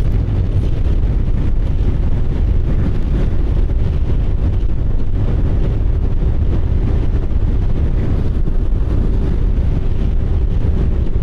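Motorcycle riding at a steady speed: wind rushing over the microphone with the engine's even drone underneath.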